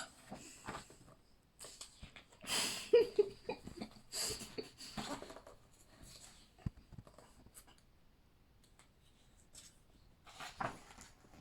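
Paper rustling as pages of a large printed book are handled and turned, in a few separate bursts, the loudest a few seconds in and another near the end.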